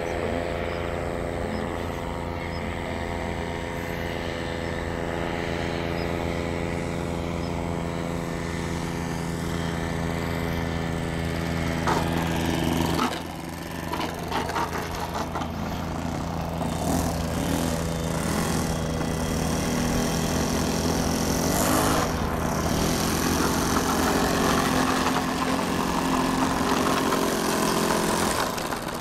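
O.S. FS-52 four-stroke glow engine of a model airplane running with a steady note. About 13 seconds in, its note drops and changes. It then runs rougher and noisier for several seconds before settling into a steady run again.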